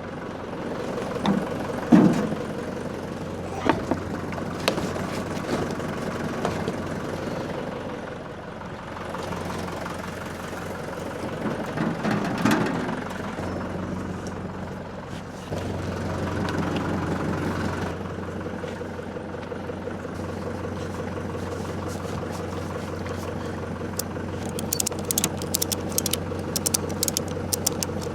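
Tractor engine running steadily, with occasional knocks and clanks. The engine note gets louder about halfway through, and there is a rapid run of clicks and rattles near the end.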